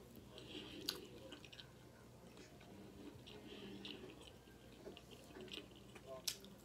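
Quiet close-miked chewing of fried chicken, soft wet mouth sounds with small scattered clicks and two sharper clicks, one about a second in and one near the end.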